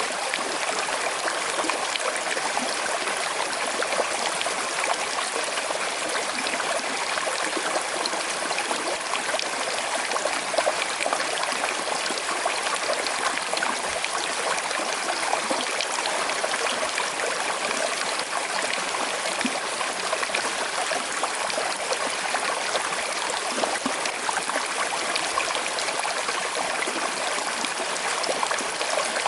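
Small river flowing gently over stones: a steady rush of water with light trickling and babbling.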